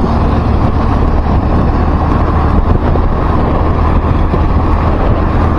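Steady road and engine noise of a moving vehicle in traffic, a loud, even low rumble with no distinct events.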